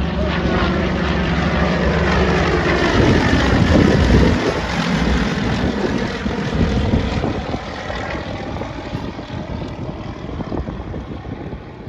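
Propeller-driven light aircraft flying past. Its engine grows louder to a peak about four seconds in, drops in pitch as it passes, then fades away.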